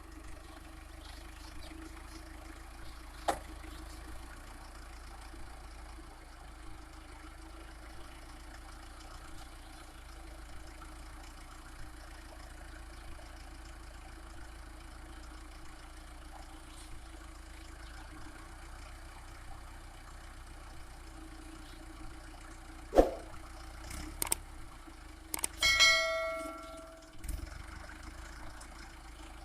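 Mahindra Arjun 555 DI tractor's four-cylinder diesel engine running steadily at a low hum. A few sharp knocks are heard, the loudest about two thirds of the way in, and near the end a brief ringing, bell-like tone.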